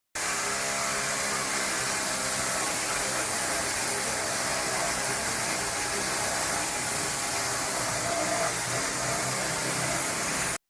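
Volkswagen Jetta exhaust with the resonator removed and an aftermarket muffler fitted, the engine running at a steady speed. A strong steady hiss sits over the exhaust note.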